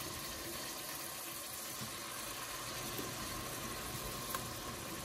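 Bluegill fillets frying in bubbling butter in a stainless steel pot, a steady sizzle, with a fork tapping the pan once about four seconds in.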